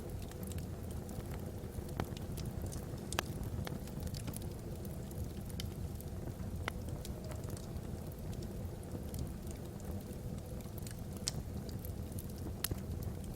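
Wood fire burning in a fireplace: a steady low rumble of flames with scattered sharp crackles and pops from the burning logs, at irregular intervals.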